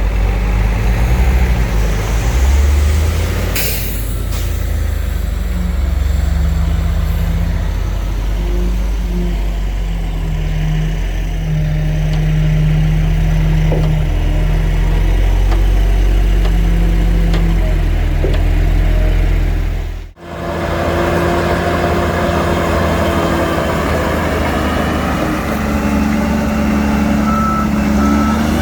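Heavy diesel earthmoving engines of a bulldozer and dump trucks running under load, their steady drone rising and falling in pitch. A short hiss comes about three and a half seconds in, and the sound cuts off abruptly about two-thirds of the way through before another engine is heard.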